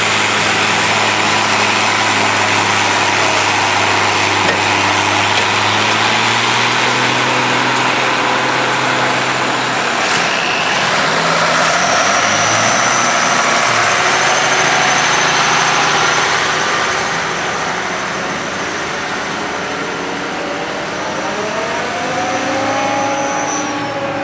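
Farm tractor engine running steadily and loudly, then revving with rising and falling pitch near the end.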